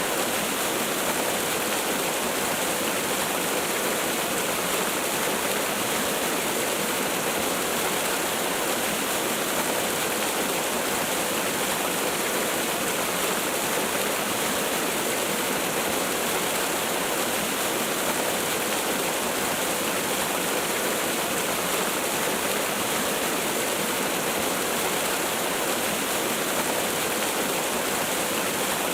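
Waterfall: a steady, even rush of falling water with no change or break.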